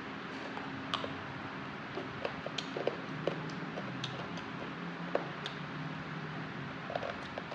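Close-miked eating sounds: scattered small wet clicks and smacks of chewing boiled pig cheek and cucumber, over a steady low background hum and hiss.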